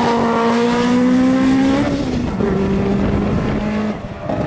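Opel Kadett C GT/E hillclimb car's four-cylinder engine under hard acceleration. Its note rises and then drops with an upshift about two seconds in, runs steady, breaks off briefly near the end, and picks up again.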